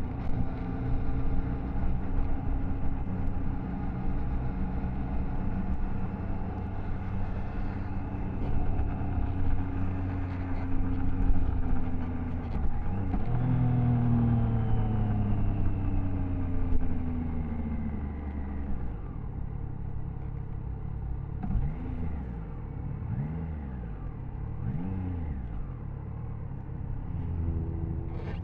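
Triumph Tiger Sport 660's inline three-cylinder engine running steadily under way, with a change of pitch about halfway through. Later the engine settles lower and gives three short revs that rise and fall.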